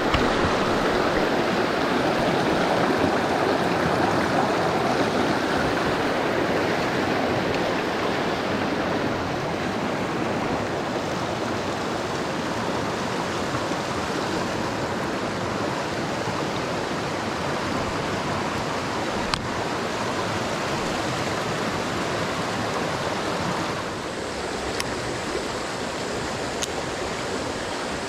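Mountain stream water rushing steadily over rocks, with a few faint clicks in the second half.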